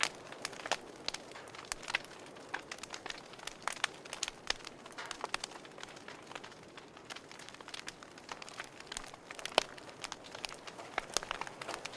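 Wood fire burning in a fireplace: irregular crackles and sharp pops over a soft steady hiss, the loudest pop about three quarters of the way through.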